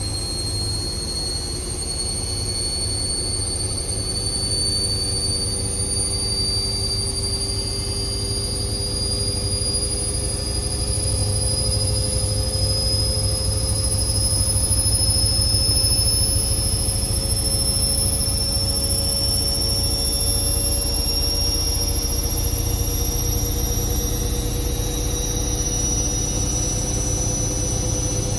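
Indesit IWC6165 washing machine spinning up: a high motor whine that climbs slowly and steadily in pitch as the drum gathers speed, over a low rumble of the drum.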